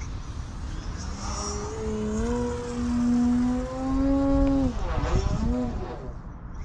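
Electric RC aerobatic airplane's DualSky outrunner motor and 18x10 propeller whining in flight. The pitch rises over a few seconds, then drops sharply about five seconds in as the plane passes. A low wind rumble runs underneath.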